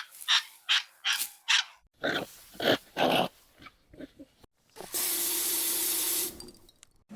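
A dog giving a quick run of short barks, about two or three a second, then a steady hiss lasting about a second and a half near the end.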